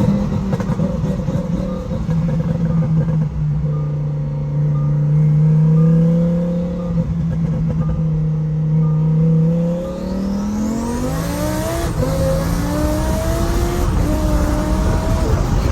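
Twin-turbo Lamborghini engine running at a steady drone, then about ten seconds in accelerating hard at wide-open throttle, its pitch climbing steeply and dropping twice at quick upshifts before climbing again.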